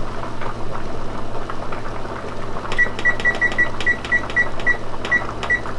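Oven control panel beeping at each key press as the cook time is keyed in: a quick run of about ten short, high beeps starting about halfway through, over a steady low hum.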